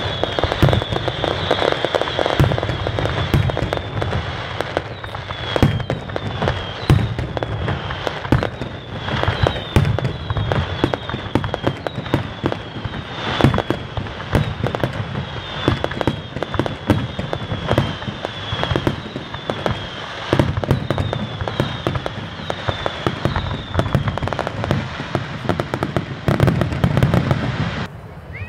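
Fireworks display: a dense, continuous run of bangs and crackling, with short falling whistles repeating over and over for most of it.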